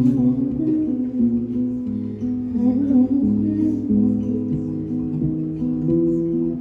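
Instrumental passage of a live song: guitar chords ringing over steady bass notes, changing every second or so, with no singing.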